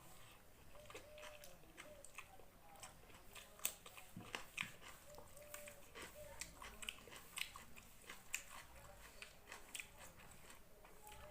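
A person chewing and biting food: irregular small wet mouth clicks and light crunches, faint, busiest in the middle stretch.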